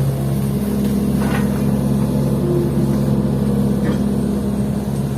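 Diesel engines of an excavator and dump truck running steadily at a constant pitch as fill soil is loaded. Two short faint noises come through, about a second in and again near four seconds.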